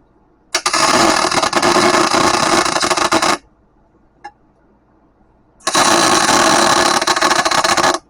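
Electric welding arc crackling in two runs of about three and two and a half seconds, each starting and stopping abruptly as the trigger is pulled and released, with a small click between them.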